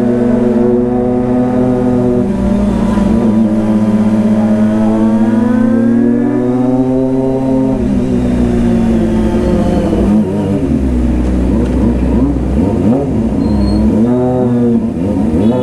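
Kawasaki ZX-25R's 250 cc inline-four engine running under way. The engine note climbs steadily for several seconds and drops about eight seconds in. It then rises and falls repeatedly with the throttle.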